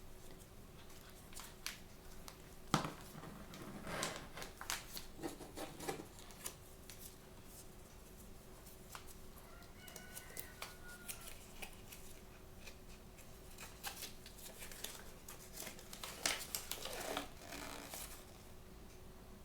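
Blind-bag packaging being handled and opened by hand: irregular crinkling and clicking of plastic wrapping, in two busier spells, with a brief pitched squeak about ten seconds in.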